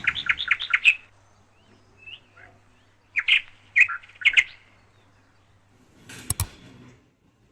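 Small birds chirping in quick runs of short notes: a rapid burst at the start and another about three seconds in. Near the end there are two sharp clicks.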